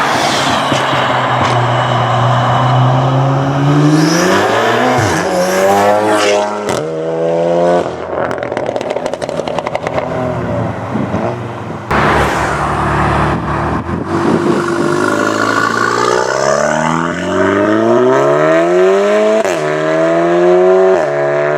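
Volkswagen Golf's turbocharged four-cylinder accelerating hard, the revs climbing and then dropping sharply at quick upshifts. In the middle there is a spell of rapid exhaust crackles and pops on lift-off, then another pull up through the gears.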